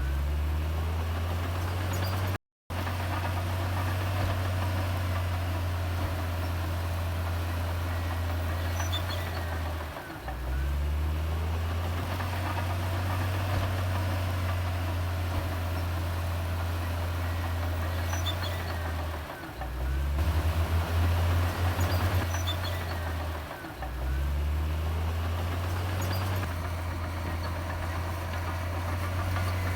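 Komatsu D58E bulldozer's diesel engine running with a steady low hum. The hum dips briefly three times and picks up again, and has a louder stretch with a fast pulsing about two-thirds of the way through.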